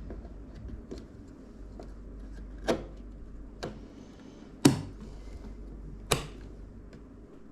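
Computer parts being handled and fitted during a PC build: four sharp clicks and knocks a second or so apart, the loudest a little past the middle, with a few fainter ticks, over a steady low hum.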